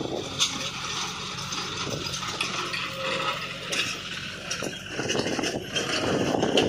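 Heavy diesel machine's engine running steadily, with metallic rattling and scraping over it.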